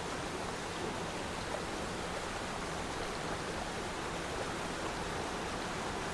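Steady rushing of falling water from a waterfall, an even hiss with no break.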